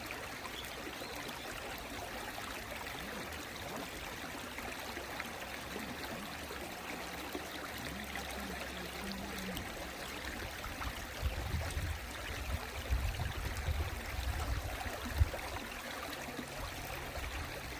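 Mountain stream water flowing and trickling steadily. About two thirds of the way through, a few seconds of irregular low thumps and rumbles sit under the water sound.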